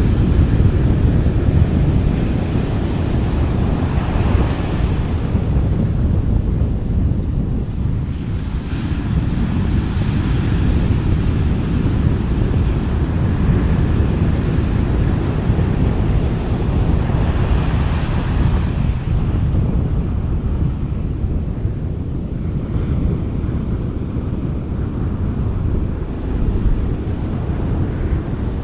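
Gentle sea waves washing onto a beach, with wind buffeting the microphone as a steady low rumble. The wash swells twice, about four seconds in and again past the middle.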